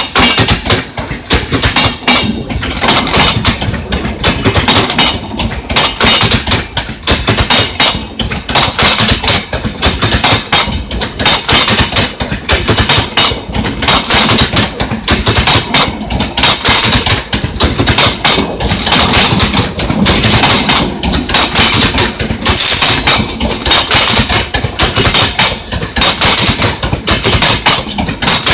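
Express train passing close by as it picks up speed, its wheels knocking rhythmically over the rail joints in a loud, continuous clatter.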